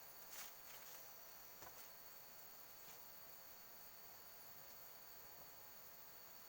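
Faint, steady high-pitched chorus of forest insects such as crickets, with a few soft taps in the first three seconds.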